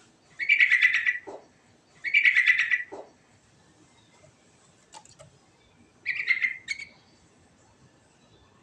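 Yellow-vented bulbul (trucukan) singing three short, bubbly, rich phrases, the first two about a second apart and the third after a pause of about three seconds.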